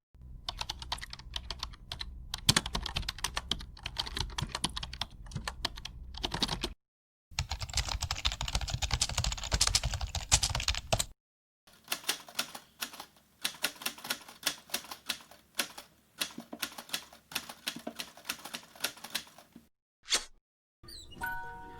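Typing on a keyboard: rapid runs of key clicks in three separate takes, each cut off by a short silence, the last with more spaced-out keystrokes, then a lone click near the end.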